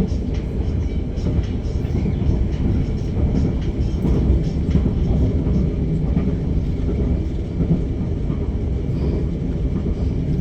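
Steady low rumble of the KLIA Express electric train running along the track, heard from inside the carriage.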